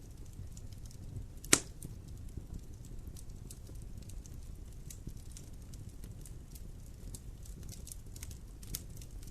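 Fire burning in a fireplace with a steady low rumble and scattered small crackles, and one sharp, loud pop about one and a half seconds in. A smaller pop comes near the end.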